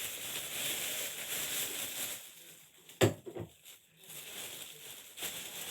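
Rustling and crinkling of plastic packaging and small items being handled and moved about during a search, with one sharp tap or knock about three seconds in.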